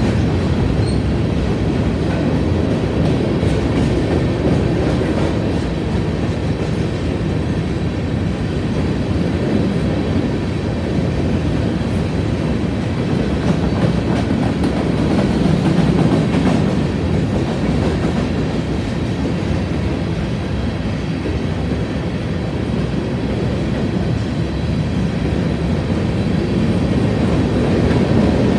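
Covered hopper cars of a freight grain train rolling past, making a steady, continuous rumble of steel wheels on rail.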